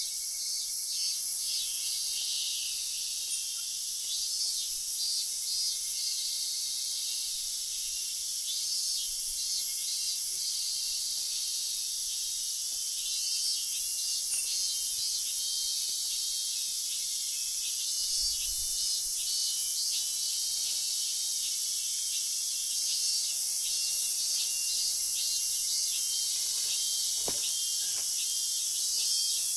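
A chorus of insects chirping: a continuous high hiss with trains of short, repeated chirps throughout.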